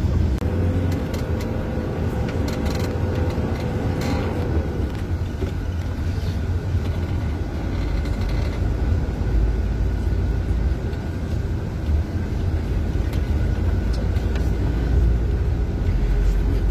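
Passenger minibus heard from inside the cabin: a steady low engine and road rumble, with a thin steady whine that drops away about four seconds in.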